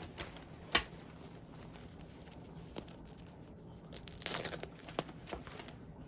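Plastic packaging rustling and crinkling as it is handled, with a sharp knock about a second in and a louder crinkle around four seconds in.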